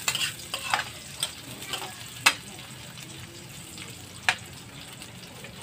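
Meat sizzling as it fries in a wok, with a steady hiss. A metal spatula stirring it scrapes and clacks against the pan several times, loudest about two and four seconds in.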